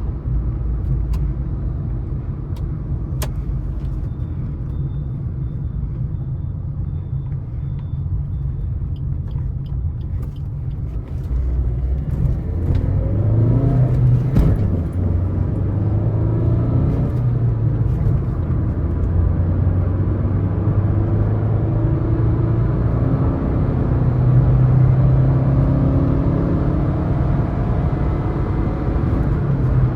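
Suzuki S-Cross 1.3 DDiS diesel engine and road noise heard from the cabin at highway speed, a steady rumble. About twelve seconds in the engine pulls harder and its pitch rises, then it holds a steady drone, with a single sharp click midway.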